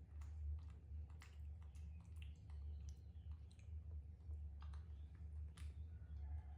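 Irregular small clicks and ticks, a few a second, over a steady low hum.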